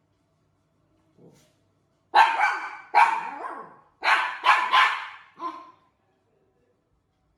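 A dog barking: about seven sharp barks in two groups, the last bark weaker, after a faint low sound about a second in.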